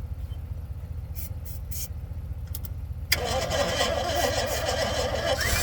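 A 1984 tow truck's starter cranking the engine for about three seconds, starting suddenly about three seconds in, over a steady low rumble. The engine is hard-starting and is being jump-started because the key won't start it.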